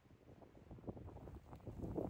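Gusty blizzard wind buffeting the microphone, growing stronger toward the end.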